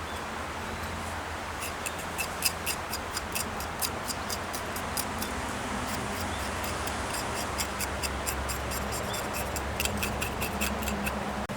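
Wood fire crackling: an irregular string of sharp pops and snaps, several a second, over a steady background noise.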